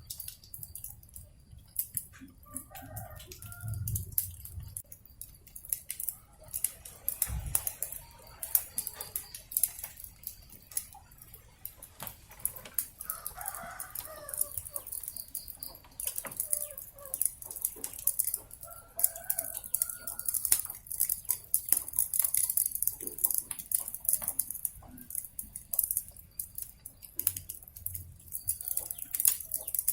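Wood fire crackling with many small pops over a steady hiss, while chickens cluck and a rooster crows a few times.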